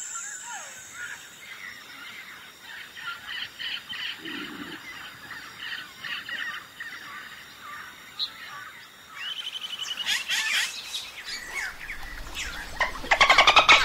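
Birds chirping in a nature ambience, many short calls one after another. Near the end a loud run of squealing, pulsed calls sets in.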